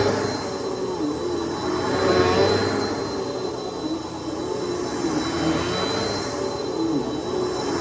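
Vacuum cleaner running with a steady high whine, its motor pitch dipping briefly now and then as it is worked.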